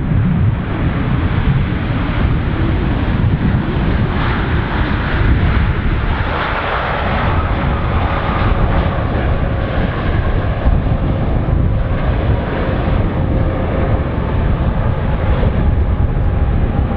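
Jetstar Boeing 787-8 Dreamliner's jet engines during its landing: a steady, loud rumble with a thin whine that slowly falls in pitch through the second half.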